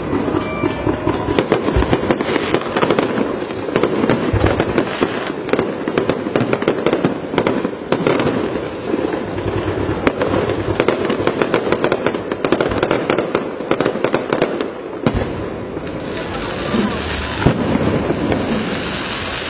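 Electronic fireworks firing a dense, continuous rapid crackle like a long firecracker string, with a brief break about 15 seconds in.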